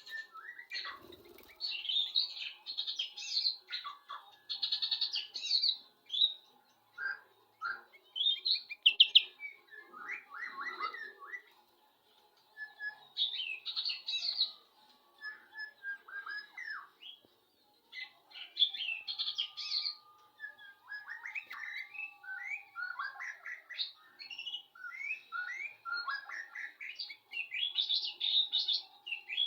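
Sooty-headed bulbul (kutilang) singing: bursts of quick chirping phrases with short pauses between them.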